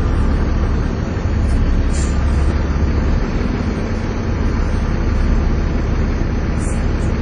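Volvo B7TL double-decker bus engine working hard, heard from on board: a steady, heavy low drone with a short dip in level about a second in.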